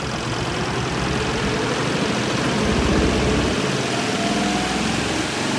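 Compact twin tub washing machine running: a steady motor hum with churning, and a thin whine rising in pitch from about four seconds in.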